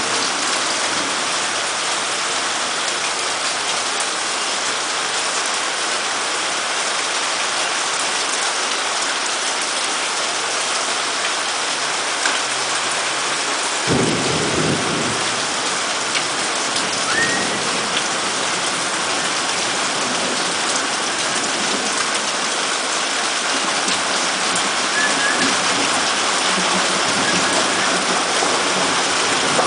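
Heavy rain falling steadily, an even hiss throughout. A brief low thump comes about halfway through.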